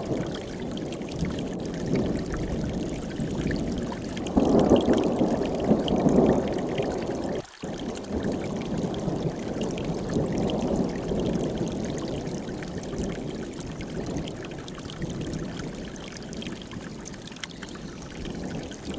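Mountain stream rushing over rocks in a steady, full wash of water, swelling louder for a couple of seconds about four seconds in. The sound cuts out for a split second about seven and a half seconds in, then carries on.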